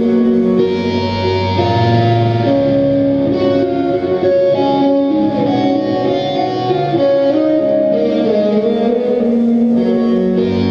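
Melodic hardcore band playing live: an instrumental passage led by melodic electric guitar lines, without vocals.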